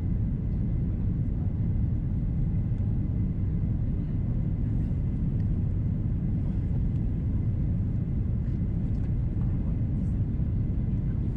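Steady low rumble of engine and airflow noise inside the cabin of an Airbus A330-343 with Rolls-Royce Trent 700 engines, on approach, with a faint thin whine above it.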